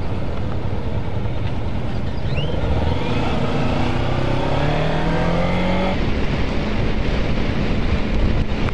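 Kawasaki Ninja parallel-twin motorcycle engine accelerating under way amid wind rush, its pitch rising for a few seconds and then dropping sharply about six seconds in at a gear change.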